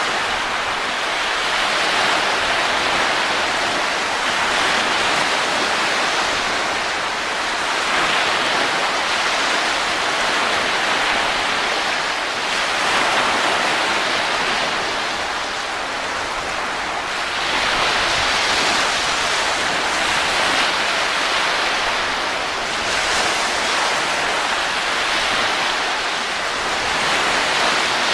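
Steady rushing wind noise with no tones in it, swelling and easing gently every few seconds.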